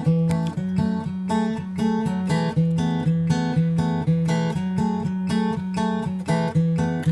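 Background music: an acoustic guitar arrangement, plucked and strummed in a steady rhythm.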